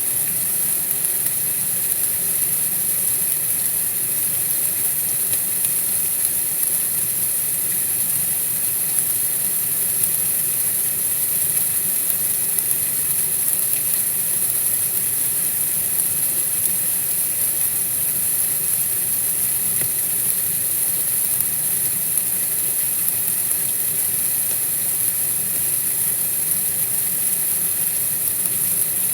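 Steady white-noise hiss, strongest and brightest in the highest pitches and unchanging throughout, with a faint low rumble beneath it.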